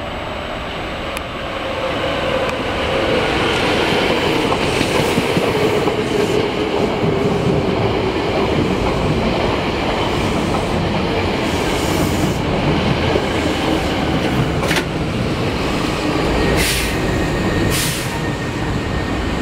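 Hankyu electric train running past, a steady rumble with a motor whine that slowly falls in pitch. Several short hissing bursts come in the second half, and a thin squeal sets in near the end.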